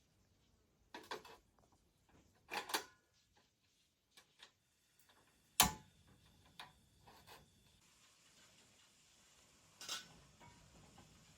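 Objects being handled: a few scattered knocks and clicks, the sharpest one a little past halfway. A faint steady hiss comes in for the last few seconds.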